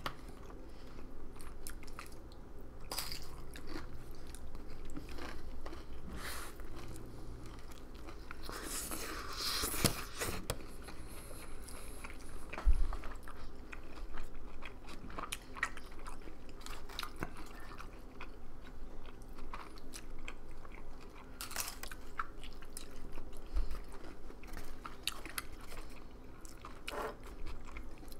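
Close-miked chewing and biting of a burrito, with many small wet mouth clicks. About nine seconds in there is a brief rustle, and a single low thump a few seconds later is the loudest sound.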